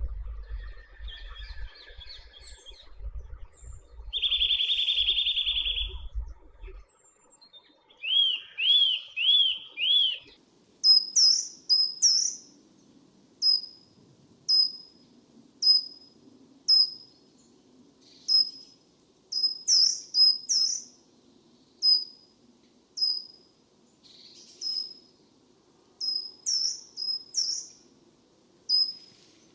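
Wild birds calling: a buzzy call and a quick run of four looping notes, then a series of short, sharp high notes repeated about once a second. A low rumble runs under the first several seconds.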